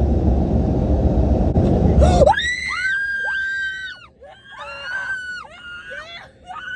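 Teenage girls screaming in fright: several long, very high-pitched screams, one after another and overlapping. For about the first two seconds a loud low rumble of car wash machinery fills the car, cutting off suddenly just before the screams start.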